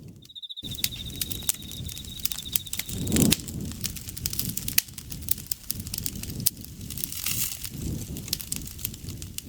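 Campfire crackling with many sharp pops over a low rumble of burning wood. An insect's steady high trill runs through the first three seconds or so, then stops. There is a brief louder low swell of the fire about three seconds in.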